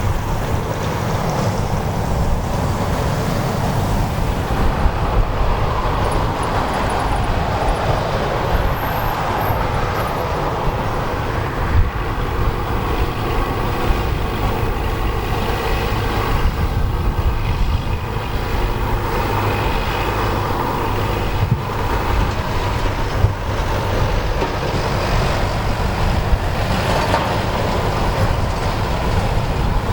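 Turboprop aircraft engine running steadily: a loud low rumble with a faint turbine whine that comes in around the middle.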